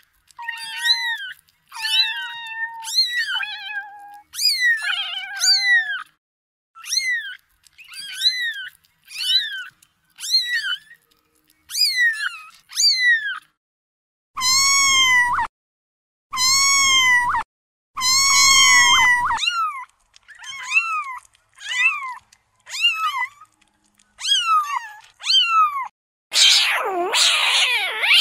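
Kittens mewing: a string of short, high-pitched calls that fall in pitch, about one a second. In the middle come three longer, louder mews, and near the end a harsher, rougher squall.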